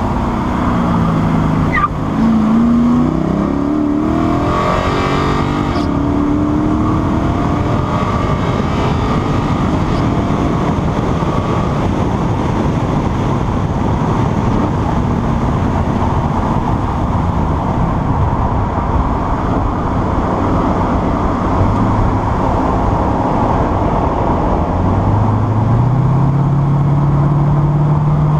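Lexus IS-F's 5.0-litre V8 running at speed on track under heavy road and wind noise. The engine pitch falls and rises in the first few seconds, and near the end it climbs and then holds steady.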